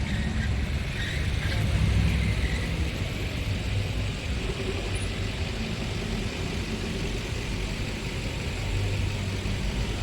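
Car engine running with a low rumble, swelling slightly about two seconds in.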